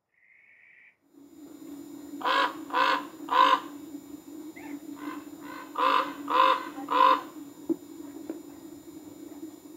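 Common ravens calling: two series of three harsh croaks, each call about half a second apart, with a few fainter calls between the series, over a steady low hum.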